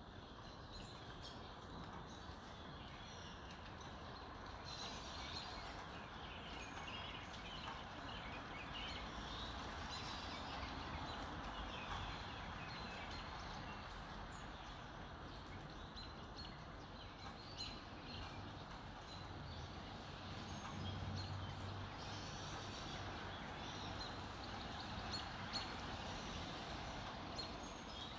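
A chorus of wild birds chirping and singing, many short overlapping calls, over a steady background noise.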